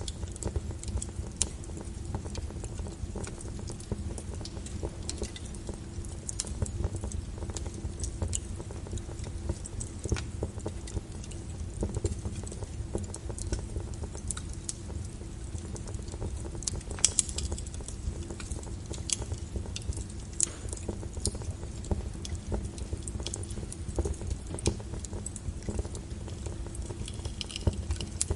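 Log fire burning in a fireplace: a steady low rumble with irregular sharp crackles and pops from the wood, the loudest pop about seventeen seconds in.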